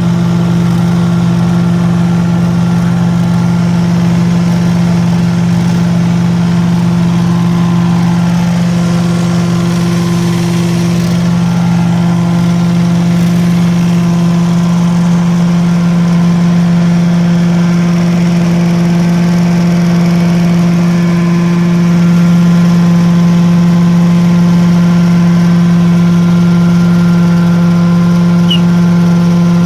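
Prochem truck-mount carpet cleaning unit running steadily: its 20 HP Kohler engine drives a Sutorbilt positive-displacement vacuum blower and a three-piston Hypro pump in one even, loud hum. It gets slightly louder about two-thirds of the way through.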